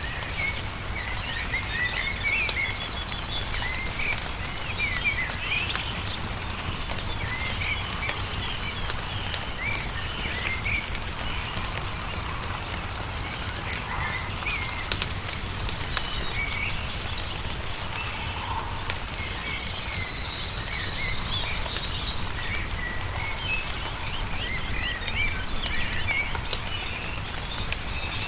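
Songbirds chirping and warbling continuously, with scattered sharp crackles from a wood fire, over a steady low rumble.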